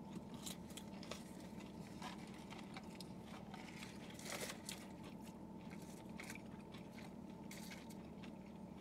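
Faint chewing and crunching of breaded fried chicken tenders: small scattered crunches over a steady low hum, with a slightly louder cluster of crunches about halfway through.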